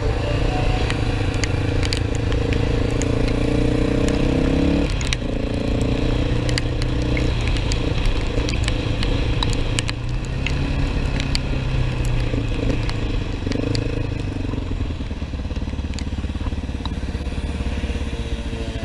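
Motorcycle engine accelerating, its pitch rising for about five seconds until a sudden drop at a gear change, then running on more steadily.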